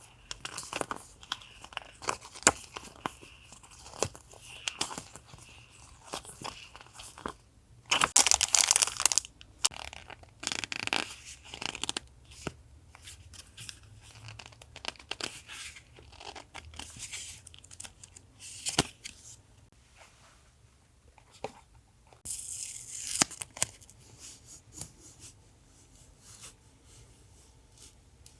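Paper and packaging of sticker sets being handled close up: rustling, crinkling and tearing with many light taps and clicks. There is a louder burst of rustling about eight seconds in and another near twenty-three seconds.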